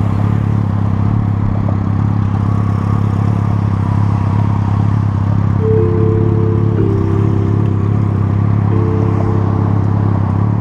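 A motor vehicle's engine running at a steady low hum. About halfway through, short held musical notes come in over it twice, in chords.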